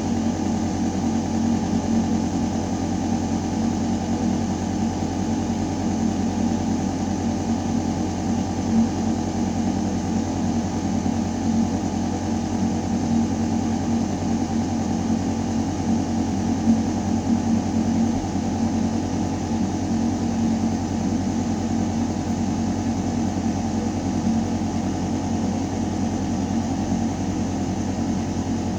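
Ventilation system in a building shaft running steadily: a deep mechanical hum with a few fixed tones over the rush of air through metal ductwork.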